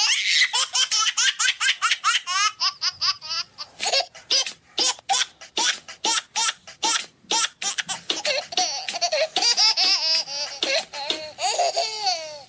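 High-pitched laughter in rapid repeated bursts, with rising squeals around two to three seconds in and again near the end. It is a laugh-track sound effect laid over the footage.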